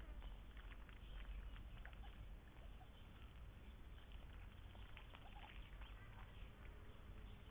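Faint outdoor ambience: a low rumble with scattered soft ticks and patters.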